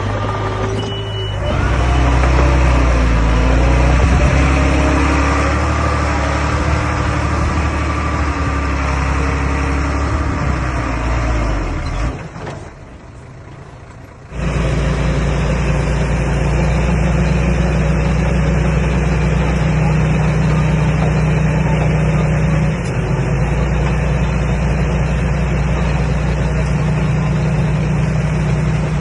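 Diesel engine of a Komatsu D21A small bulldozer running steadily while it works. The sound falls away for about two seconds near the middle, then comes back at the same steady level.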